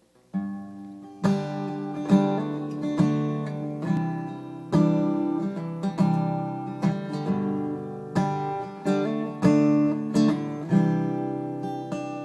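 Acoustic guitar strummed in a steady rhythm, chords ringing between strokes, as the instrumental introduction to a song.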